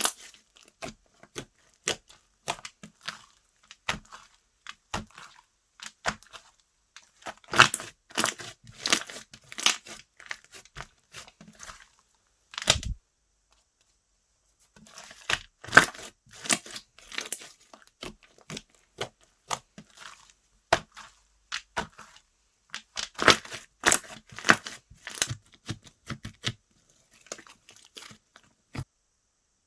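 Slime being stretched, squeezed and poked by hand, giving clusters of sharp crackling, popping clicks. The crackling pauses for a couple of seconds after a dull thud near the middle, then resumes and trails off.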